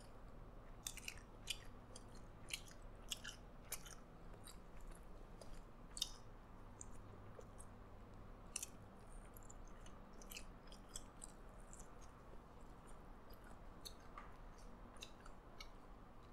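Faint, close-up chewing of a burger patty with the mouth closed: scattered soft clicks and smacks at an irregular pace.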